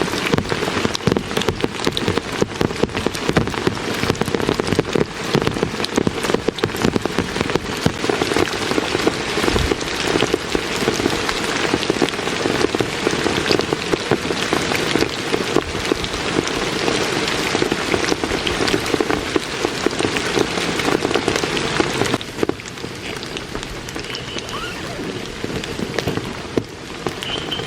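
Heavy rain falling, a dense patter of drops hitting a surface, which eases somewhat about three-quarters of the way through. Two brief high chirps are heard near the end.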